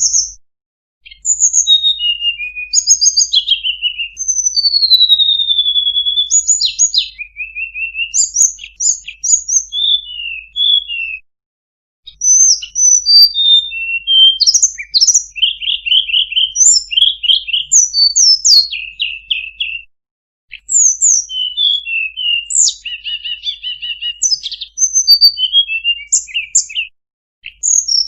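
Tledekan gunung singing a fast, varied song of short chirps, trills and sliding whistles. The song is full of phrases taken up from other birds. It breaks off briefly three times.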